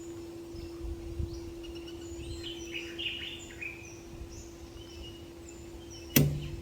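Wild birds chirping in a string of short, falling notes over a steady low hum. One sharp knock comes near the end.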